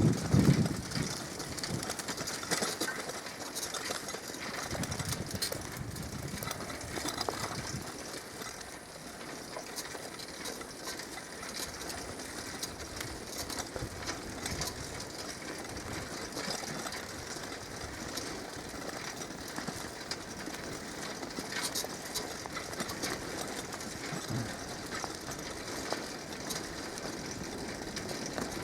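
Outdoor forest ambience: a steady rustling hiss with many small scattered crackles and ticks.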